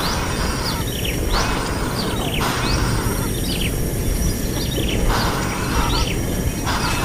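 Small birds calling in a string of short falling chirps, roughly one a second, between short patches of harsh hiss, over a steady low rumble.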